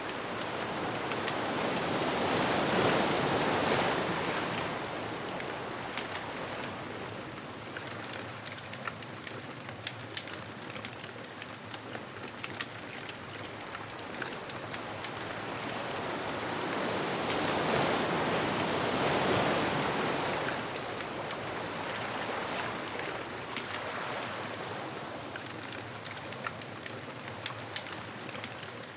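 Ocean waves washing onto a beach, swelling twice, once near the start and again just past the middle, with a bonfire crackling and popping throughout.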